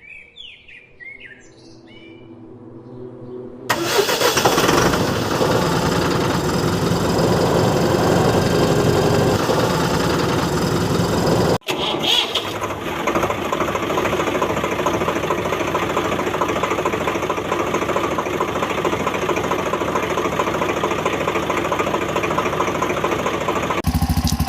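A vehicle engine cuts in abruptly about four seconds in and runs on steadily. There is a split-second break near the middle.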